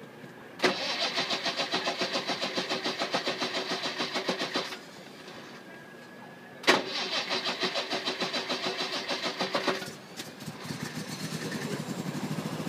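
Triumph Roadster's four-cylinder engine being cranked on its starter motor in two tries of about four and three seconds, each opening with a sharp clack and turning over at an even rapid beat. After the second try it catches and keeps running near the end.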